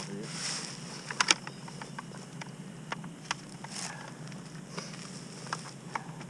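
Scattered light clicks and taps, the loudest a quick cluster about a second in, with a couple of brief rustles over a faint steady low hum.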